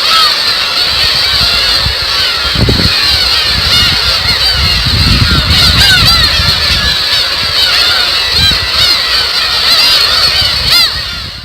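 A large flock of black-tailed gulls (umineko) calling, many overlapping cries at once, with low rumbles now and then; the sound cuts off abruptly at the end.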